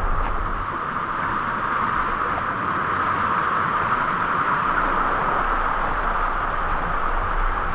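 Waterfall's rushing water, a steady, unbroken roar of falling and splashing water.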